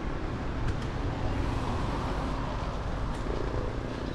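Steady low rumble of wind buffeting the microphone, mixed with road noise, while riding a bike.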